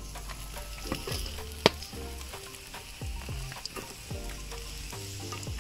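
Sliced bakso meatballs with red onion and garlic sizzling in hot oil in a steel wok, stirred with a metal slotted spatula that clicks and scrapes against the pan, with one sharp click about one and a half seconds in. Background music plays underneath.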